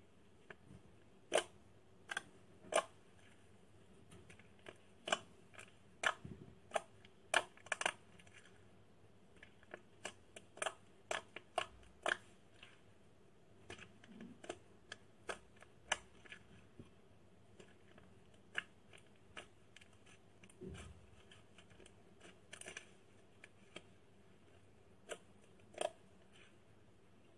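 Slime being squeezed and poked by hand, giving irregular sharp clicks and pops, several a second at times.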